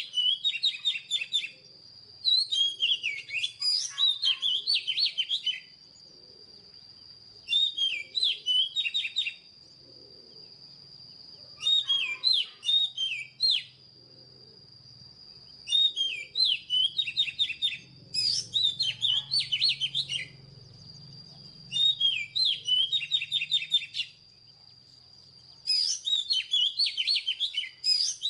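Oriental magpie-robin singing: bursts of quick, varied whistled phrases, about eight in all, coming every two to four seconds with short pauses between. A thin, steady high-pitched tone runs underneath.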